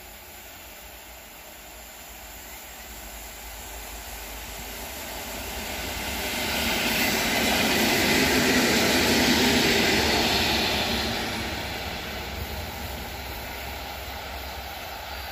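A train passing by: its rolling noise swells over several seconds, is loudest about halfway through, then fades to a lower steady rumble.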